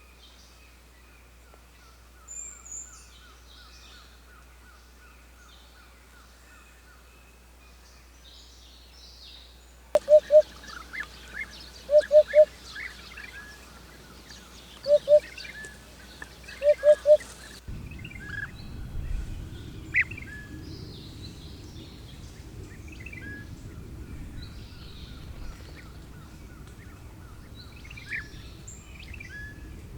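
Wild birds chirping and singing. From about ten seconds in, loud short calls come in twos and threes a few times. Later a low rumbling noise runs under the chirps.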